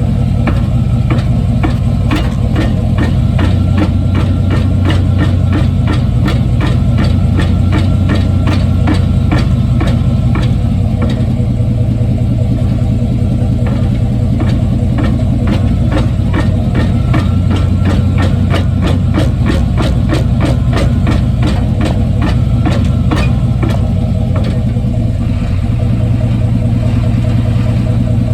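A 1995 Chevy Silverado's 5.7-litre V8 running, heard from under the truck, with rapid, uneven knocking from the drivetrain that thins out near the end. This is the underbody clunk being tracked down, suspected in the drive shaft or differential.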